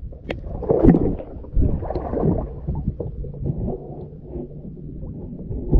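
Water sloshing and knocking around a kayak, with uneven low thumps and a few sharp knocks.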